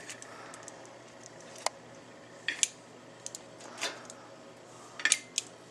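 Serving utensils clicking and clinking against plates as cooked potstickers are dished up: a handful of sharp separate clicks, with short clusters about halfway through and near the end.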